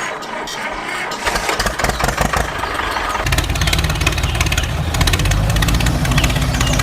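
Small engine starting: it cranks and builds up, catches about three seconds in, then runs steadily with fast, even firing pulses.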